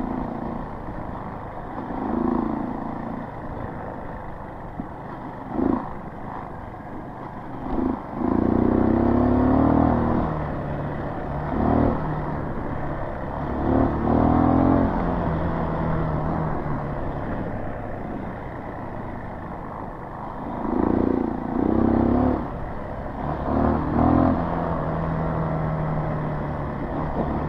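Small dirt bike's single-cylinder engine running under varying throttle on a trail. It revs up in several surges, the strongest about a third of the way in and again near three quarters, between steadier stretches of lower running.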